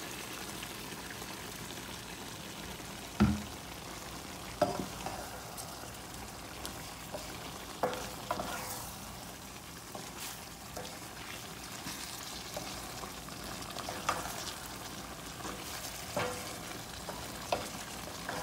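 Eggplant and minced chicken sizzling steadily in a nonstick frying pan as they are stirred, with several sharp knocks of the utensil against the pan, the loudest about three seconds in.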